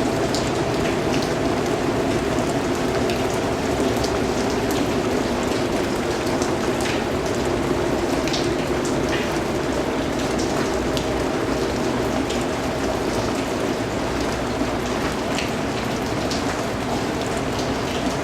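Steady rainfall, an even hiss with scattered individual drops ticking sharply above it.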